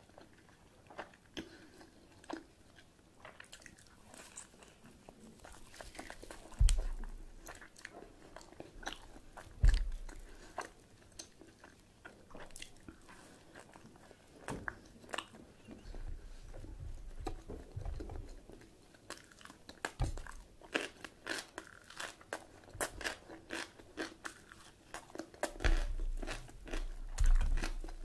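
A person eating close to the microphone: biting and chewing with crunching and wet mouth clicks, a few heavy low thumps, and a denser run of them near the end.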